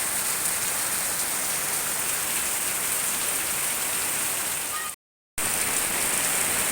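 Heavy tropical downpour: a steady hiss of hard-falling rain. The sound drops out completely for a moment about five seconds in.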